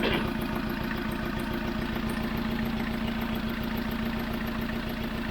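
Tracker's diesel engine idling steadily with an even, rapid pulse, running on its first start after a new timing belt was fitted and the injectors were bled.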